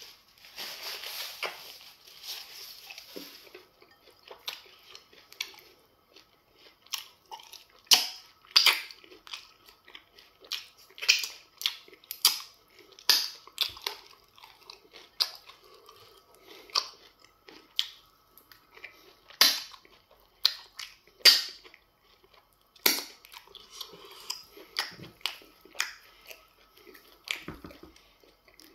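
Mouth sounds of eating semo fufu with okra soup: wet chewing and sharp lip smacks at irregular intervals, with a longer noisy stretch in the first few seconds.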